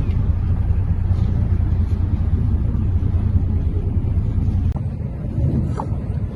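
Steady low rumble of a boat under way, its engine mixed with wind buffeting the microphone; it eases slightly near the end.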